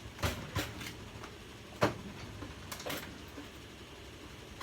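A handful of short, sharp clicks and knocks of kitchen items being handled, the loudest a little under two seconds in, over a faint steady background.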